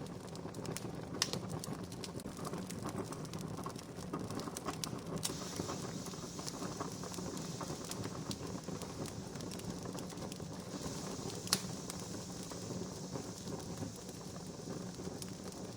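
Wood fire crackling steadily with scattered sharp pops of burning wood, two of them louder, about a second in and about eleven seconds in.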